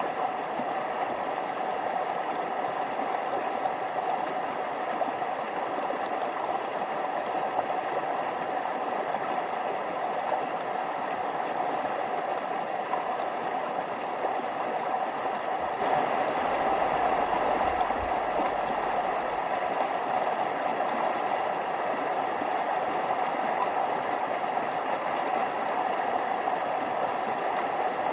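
Small forest stream flowing steadily over little waterfalls, a constant rush of water that grows slightly louder a little past the middle.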